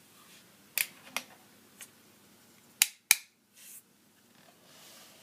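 Hard plastic toy figure being handled: several sharp clicks and snaps, the loudest pair about three seconds in, followed by a brief rustle.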